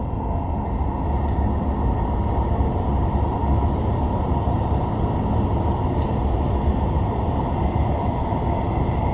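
Steady low rumble of an E5 series Shinkansen running, heard inside the passenger cabin as the train runs into the tunnel toward Ueno. There are two faint clicks, one about a second in and one about six seconds in.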